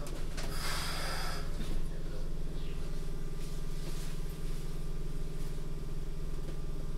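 Running noise inside a Keikyu 1500 series electric train car, recorded binaurally: a steady low hum and rumble from the running gear. There is a short hiss about a second in.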